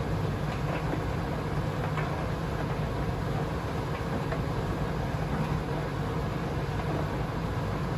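Privileg Sensation 952 S top-loading washing machine running, a steady hum and rumble from the motor and drum with a few faint ticks.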